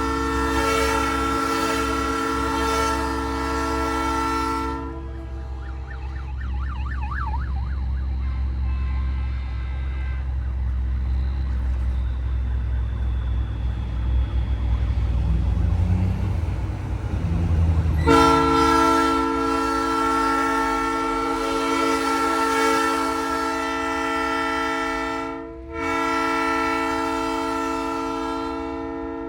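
Nathan Airchime P3 train horn on a semi truck sounding a long chord. It cuts off about five seconds in, leaving the truck's engine running, then blows again about eighteen seconds in with a brief break near the end.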